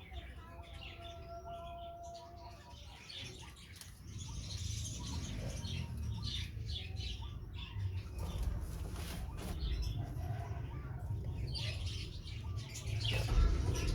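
Young budgerigars chirping in short high calls, with wings fluttering. A low rumble rises about four seconds in and stays under the chirps.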